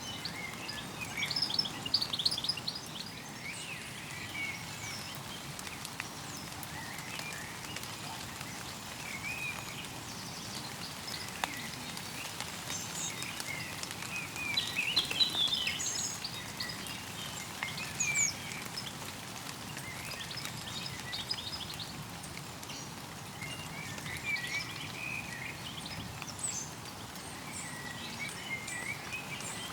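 Stream water running steadily, with small birds chirping over it in short scattered bursts, busiest about two seconds in, around the middle and again near the end.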